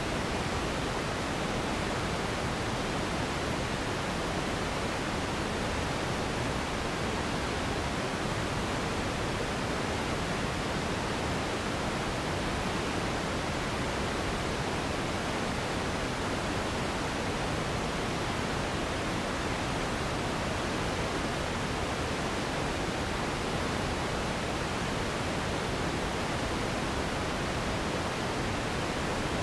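Synthetic pink noise for sleep: an even, unbroken hiss with no change in level or character.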